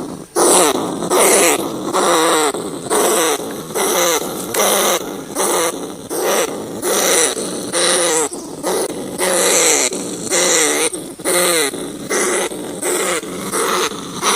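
Rat crying: a loud, wavering, pitched squeal repeated over and over, about three calls every two seconds.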